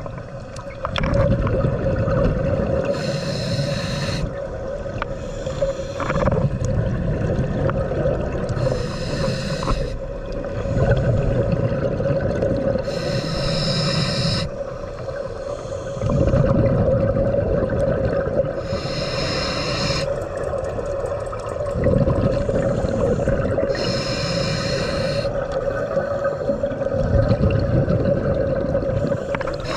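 Scuba diver breathing through a regulator underwater: a hiss of about a second on each inhale, roughly every five seconds, with rumbling exhaled bubbles between, over a steady hum.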